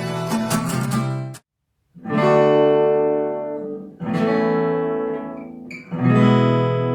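Acoustic guitar: a run of quick strumming, cut off after about a second and a half, then three full chords strummed one at a time about two seconds apart, each left to ring out. These are the lesson's first three chords, D, B major and E major.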